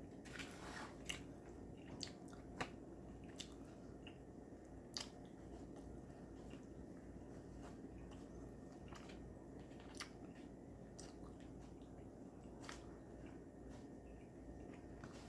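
Faint kitchen handling sounds while the wraps are put together: a short rustle near the start, then a scattered handful of light clicks and taps over a low steady hum.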